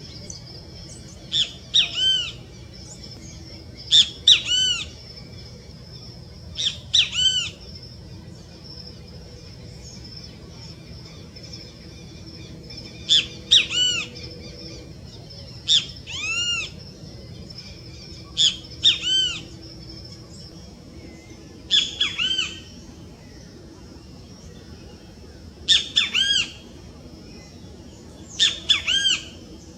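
Songbirds calling: short, ringing arched notes in clusters of two or three, repeated every few seconds, over a faint steady high tone and a low hum.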